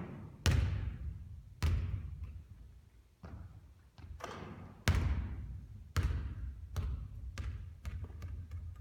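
Basketball shooting practice: a string of sharp ball impacts, each with a long echoing tail. Several loud bangs come a second or so apart, then a run of quicker, fainter bounces near the end.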